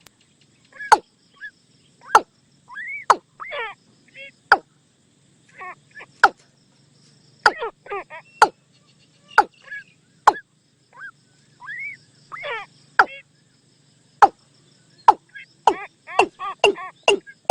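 Watercock calls: sharp, clipped notes mixed with short, hollow pitched calls, some rising, repeated irregularly as a lure call.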